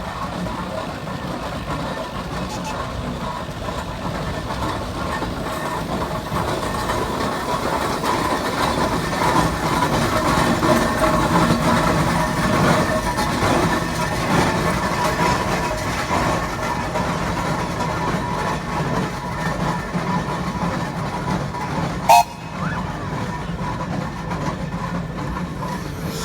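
John Fowler 7 hp steam traction engine running past, growing louder to about halfway and then fading. Near the end there is one sudden sharp bang.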